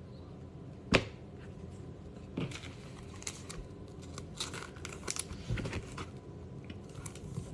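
Trading cards and foil pack wrappers being handled: intermittent crinkling and rustling, with a sharp knock about a second in.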